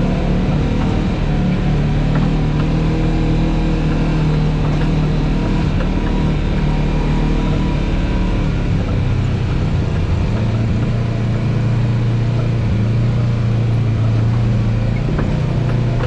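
Off-road vehicle engine running steadily under load while climbing a rock obstacle, its pitch dropping to a lower, steady note about ten seconds in.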